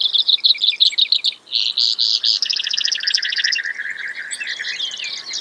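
Brewer's sparrow singing: long, rapid trills that change speed and pitch from one run to the next, with a short break about a second and a half in.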